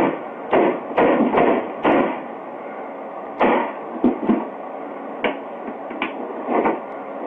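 Repeated, irregular blows on a CD player's housing as it is broken apart, about a dozen sharp knocks and cracks with short rattling after some of them.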